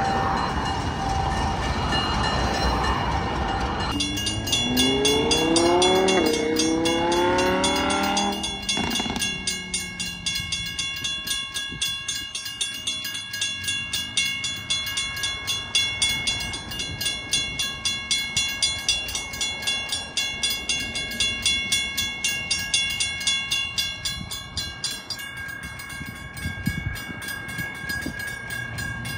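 Rumble of an ALCO RS-11 diesel locomotive mixed with road traffic, then a car engine accelerating hard, its pitch rising and dropping back through several gear shifts. After that, a railroad crossing bell dings steadily, about twice a second, over faint steady tones.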